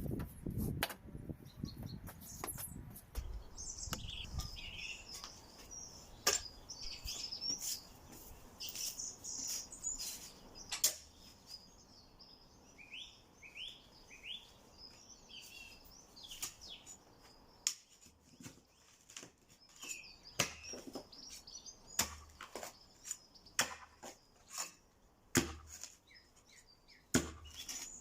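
Small birds chirping and singing, with irregular sharp knocks and clicks about once a second.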